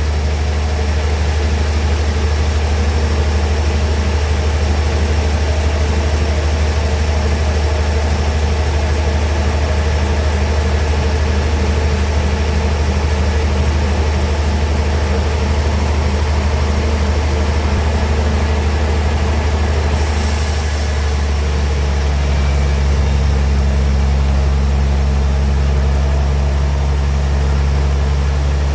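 Sawmill bandsaw machinery running steadily with a strong low hum. About twenty seconds in, a high hiss joins and the low hum shifts a little.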